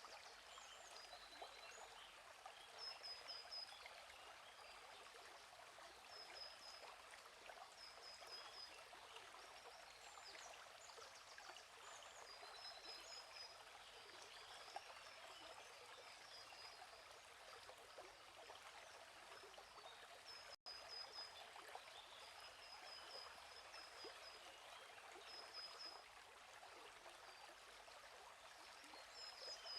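Faint, steady babbling of a gently flowing stream, with a small bird giving short high chirps every few seconds. The sound cuts out for an instant about two-thirds of the way through.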